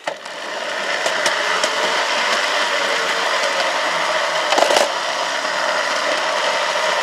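Garden railway locomotive starting off and running along the track, picked up close by an onboard camera: a steady mechanical running noise that builds over about a second, with sharp clicks and rattles now and then, the loudest about four and a half seconds in.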